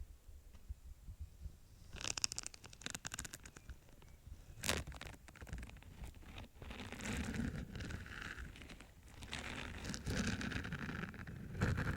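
ASMR tapping and scratching on an object: near quiet at first, then a quick flurry of taps about two seconds in and a single sharp tap just before the middle, followed by steady scratching and rubbing that swells and fades through the second half.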